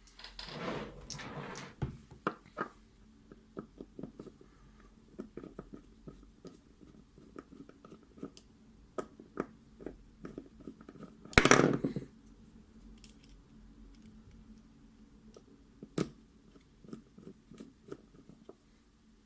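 Small metal lock parts of a Mul-T-Lock MT5+ cylinder clicking and tapping as they are handled during disassembly, with one louder clattering rattle about eleven seconds in and a sharp click a few seconds later.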